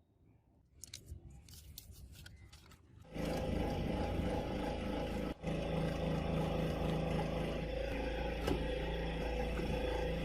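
A few faint clicks and knocks, then about three seconds in a workshop machine starts and runs steadily, loud, with a low hum and a steady tone over a broad rushing noise, dipping for an instant about five seconds in.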